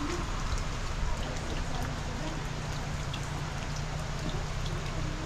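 Steady rain falling, with individual drops striking close by as scattered short clicks.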